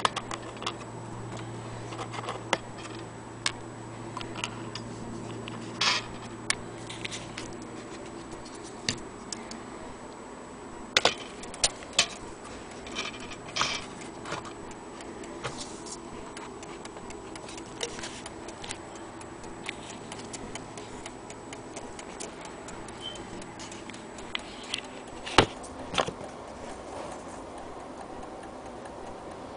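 Irregular sharp clicks and knocks, spaced a second or more apart, with the loudest near the middle and near the end. A steady low hum runs under them for the first several seconds.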